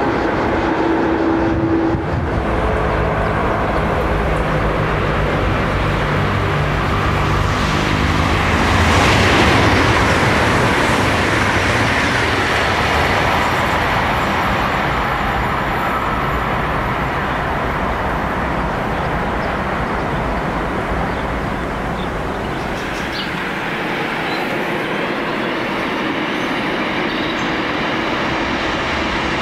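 High-speed electric train passing at speed: a rush of wheel and air noise that builds to a peak about nine seconds in, then slowly fades as it draws away.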